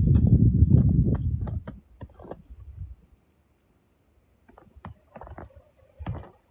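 Wind rumbling on the microphone for about the first two seconds, then much quieter, with scattered soft crunches of footsteps in snow.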